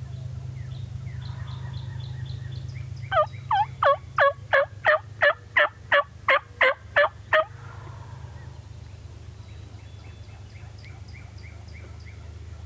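Wild turkey yelping: a loud, evenly spaced series of about a dozen falling yelps lasting about four seconds, with fainter turkey calls before and after. A steady low rumble runs underneath.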